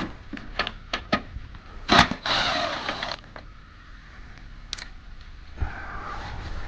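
Hand tools working on the car's underbody cover bolts: a few sharp metallic clicks, then a loud clack about two seconds in followed by about a second of rattling, one more click later and a dull thump near the end.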